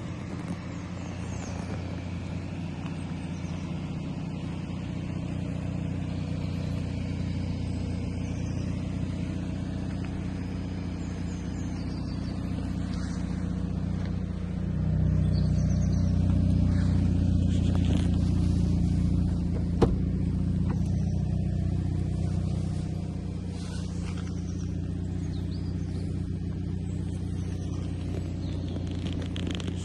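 Hyundai i30 N's 2.0-litre turbocharged four-cylinder engine running steadily with no revving, growing louder for several seconds about halfway through. A single sharp click comes about twenty seconds in.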